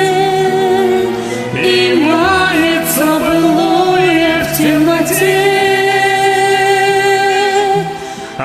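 A woman singing long, held notes with vibrato over a karaoke backing track.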